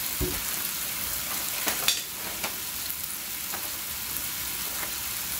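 Seasoned shrimp with diced onion and bell peppers frying in a pan: a steady sizzle with a few sharp pops and crackles.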